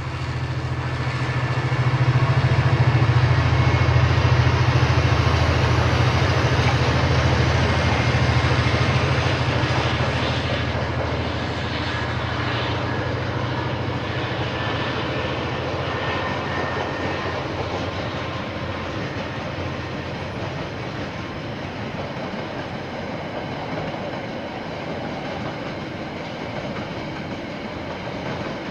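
KiwiRail train passing: the diesel-electric locomotive's deep engine rumble swells and is loudest a few seconds in, then eases after about ten seconds into the steady rolling noise of the wagons on the rails.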